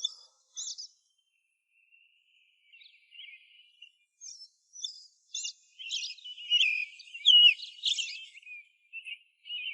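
Small birds chirping and twittering in quick, high calls: a few scattered chirps at first, then a busier run of warbling from about five seconds in.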